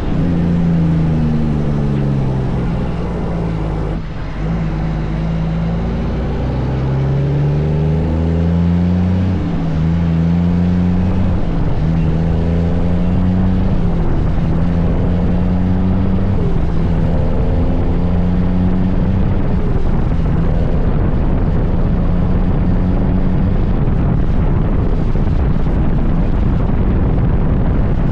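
Kenworth truck's diesel engine running, its pitch falling and rising several times over the first dozen seconds, then holding steady with a rougher rumble near the end.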